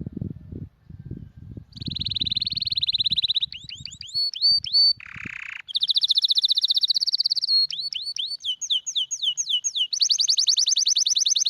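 Domestic canary singing: a fast trill, then a run of repeated falling notes, a short harsh rasping note about five seconds in, and more fast trills alternating with falling-note phrases. A low rumble comes before the song begins.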